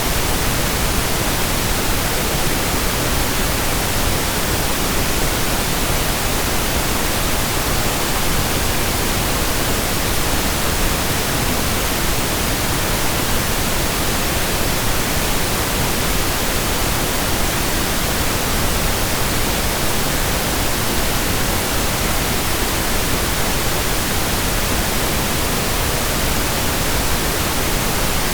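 Steady pink noise: an even, unchanging hiss across the whole range, with no events.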